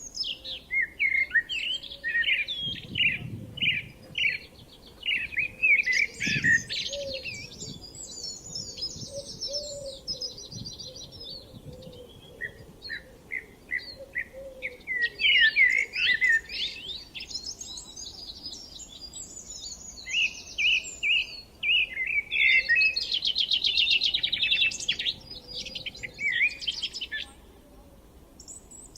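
Songbirds singing: quick runs of chirps and trills that come in long phrases, with short pauses between them.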